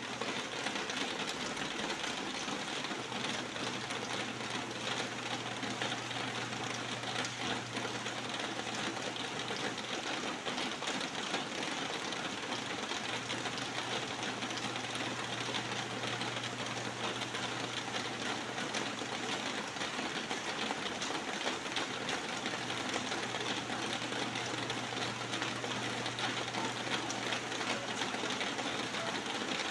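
Steady rain falling in a dense, even patter, with a faint low hum that comes and goes twice.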